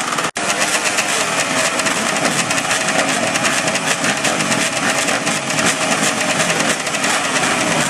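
Racing motorcycle engines running on the track, several engine pitches rising and falling together over a dense, loud noise. The sound drops out for an instant about a third of a second in.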